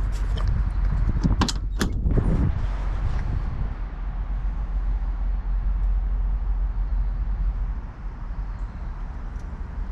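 A door on a truck being worked open or shut: a few sharp latch clicks and knocks, loudest about one and a half to two seconds in, over a steady low rumble.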